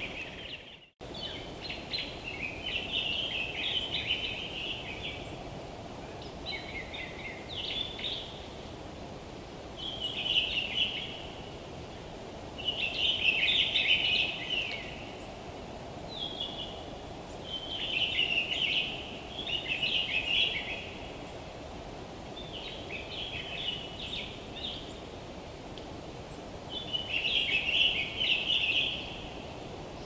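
A songbird singing in repeated short, busy phrases, one every two to three seconds, over a steady low background hiss. All sound drops out briefly about a second in.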